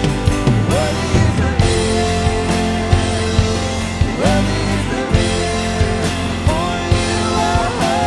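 Live worship band playing, with drums keeping a steady beat under sustained chords and a sliding melody line; no clear sung words.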